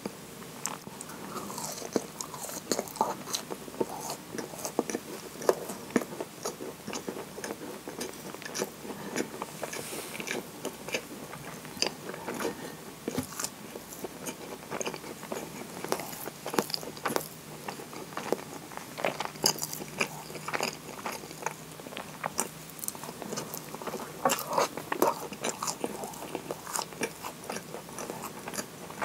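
Close-up biting and chewing of a moist kinako (roasted soybean flour) scone dipped in maple syrup: an irregular, continuous run of small mouth clicks and chews.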